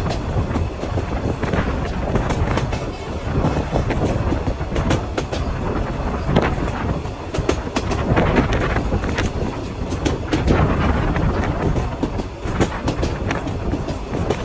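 Korotoa Express passenger train running along the track, the wheels clattering over rail joints with a steady rumble and frequent sharp clacks and rattles.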